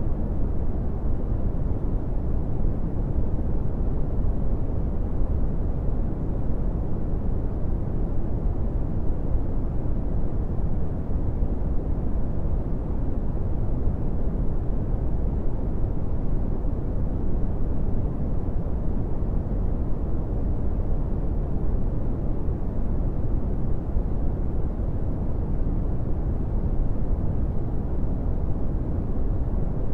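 Steady brown noise: an even, deep rumbling hiss, strongest in the low end and fading toward the highs, unchanging throughout.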